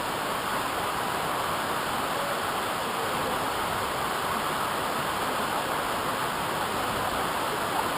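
Steady rushing of falling water from a waterfall, an even unbroken wash of noise.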